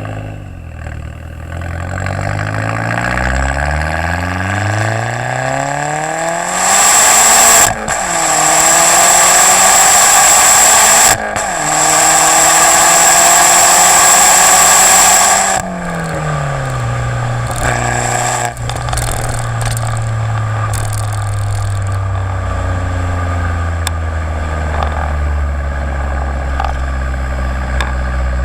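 Jetta GLI's turbocharged engine through a 3-inch downpipe and Magnaflow race exhaust, accelerating hard with rising pitch. Two quick gear changes break the sound about 8 and 11 seconds in. About 16 seconds in it lifts off and settles into a steady low drone that slowly falls in pitch.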